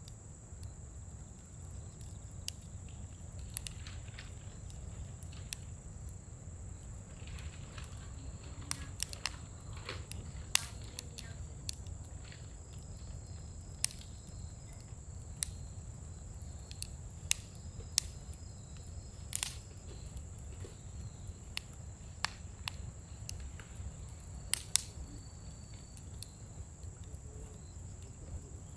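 Scrap-wood fire crackling in a fire pit: irregular sharp pops and snaps, a few of them loud, over a low steady rumble of burning.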